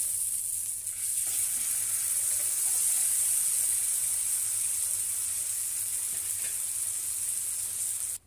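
Miso-marinated salmon steak frying in a lightly oiled non-stick grill pan over medium heat, a steady high sizzle.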